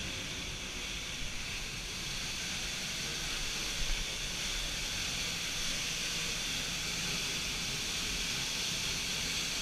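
Waterfall rushing: a steady hiss of falling water, with no change in level.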